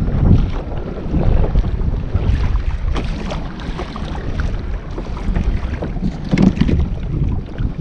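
Wind buffeting the microphone in a steady low rumble, with water slapping against a kayak's hull.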